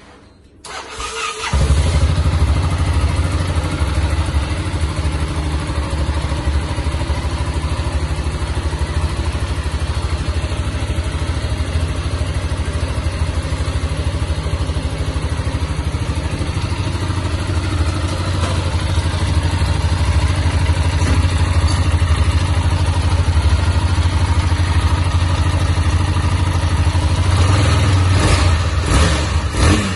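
Yamaha XT660's single-cylinder four-stroke engine starting on the electric starter about a second in, then running steadily, with a few blips of the throttle near the end. It runs without the ticking knock that a worn crankshaft main bearing had been making, the bearing having just been replaced.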